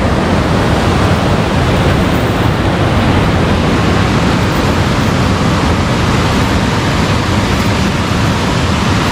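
Steady loud rush of fast-flowing, rain-swollen water.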